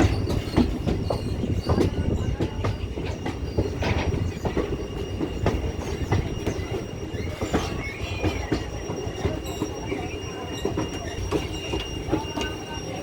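Silchar–Guwahati Express passenger train running on the line: a steady rumble, with the wheels clicking over rail joints and a thin, steady high squeal above.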